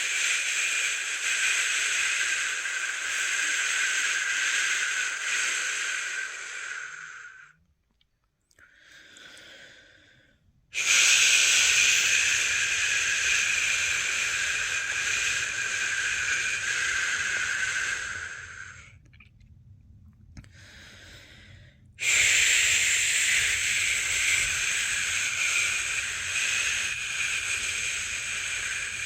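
A person's long "shhh" shushing, used to lull a newborn to sleep. There are three long shushes of about seven to eight seconds each, with a short pause between them and a quieter breath drawn in during each pause.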